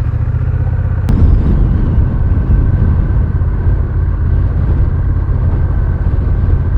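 Honda Rebel 1100's parallel-twin engine running steadily. About a second in there is a sharp click, after which the engine and road noise get louder as the motorcycle pulls away.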